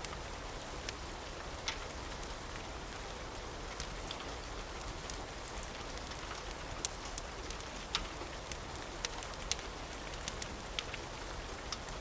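Steady rain, with scattered sharp crackles and pops through it, about one a second.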